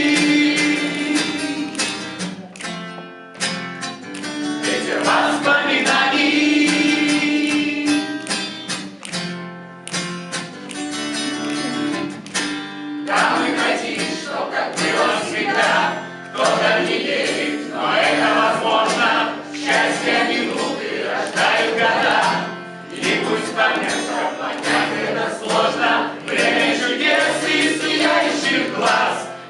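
A group of voices singing a song together in unison, accompanied by an acoustic guitar.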